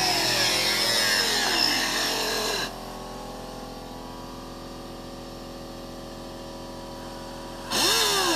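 Hand-held cut-off wheel tool winding down with a falling whine after the trigger is let go, leaving a steadier, quieter hum. Near the end it is triggered briefly, spins up and winds down again. It is being used to cut rusted sheet metal out of a Jeep's body tub.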